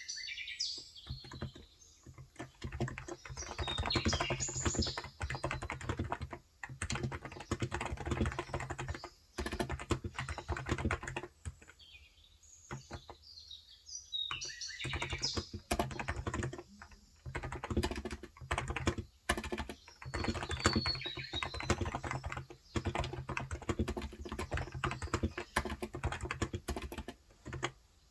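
Continuous fast typing on a Cox Endeavor electrostatic-capacitive (non-contact) 35 g tenkeyless keyboard, in runs broken by brief pauses. Birds chirp now and then, high-pitched, over the typing.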